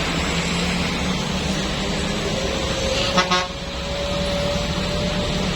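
Vehicle engines running steadily with traffic noise, and a short horn blast about three seconds in.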